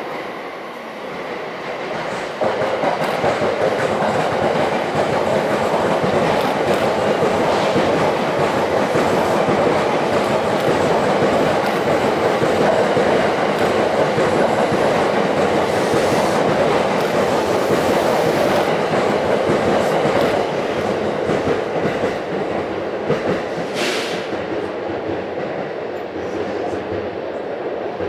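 Electric commuter train passing close by: a loud, steady rumble with wheels clattering over the rail joints. It builds up sharply a couple of seconds in and eases off after about twenty seconds. A brief high squeal comes near the end.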